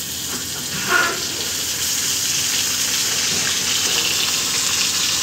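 Hot oil sizzling in a kadhai as wet ground onion paste is poured onto fried garlic; the hiss grows louder about a second in and holds steady.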